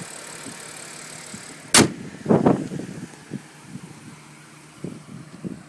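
A car's hood shut with a single sharp slam a little under two seconds in, followed by a few softer knocks and handling rustles.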